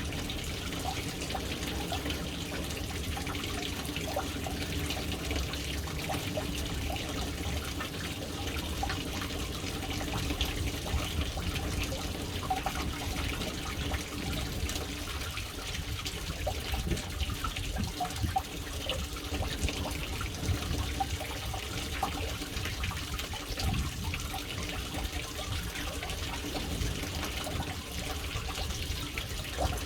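Water falling steadily into a household water tank, a continuous splashing trickle with small spatters.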